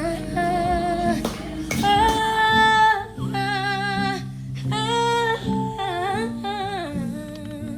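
A song: a woman singing held, wavering notes over a steady instrumental backing.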